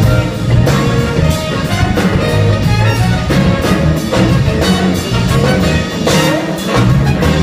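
Live soul-rock band playing an instrumental stretch with no vocals: a horn section over a steady drum-kit beat, bass and guitar.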